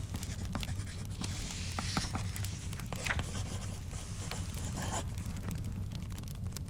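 Fireplace crackling, with scattered sharp pops over a low steady rumble. A book page is turned in the middle, the paper sliding and rustling for a few seconds.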